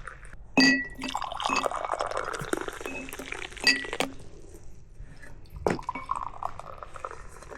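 Dishware clinking with a short ringing tone, twice, with liquid being poured between the clinks and another knock near the end, as food or drink is served.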